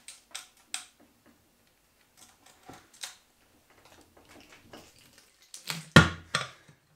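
Irregular metal clicks and knocks of hand tools and parts being handled on the diesel engine being taken apart, sparse at first and busier later, with the loudest knock about six seconds in.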